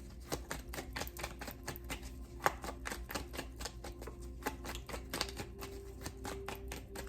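Tarot cards being shuffled by hand: a rapid, irregular patter of card clicks and snaps, several a second.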